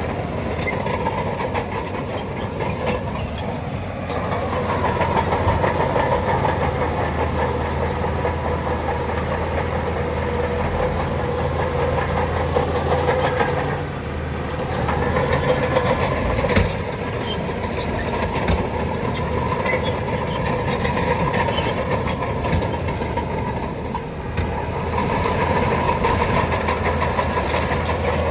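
Bulldozer's diesel engine running and working under changing load, swelling louder several times, with scattered knocks and a sharp knock about two-thirds of the way through.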